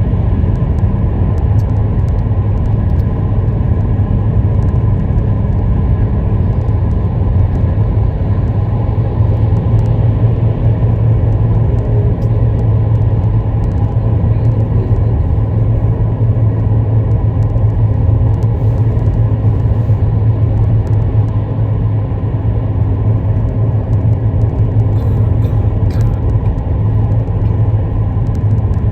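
Car driving in traffic: a steady low rumble of engine and road noise that holds even throughout.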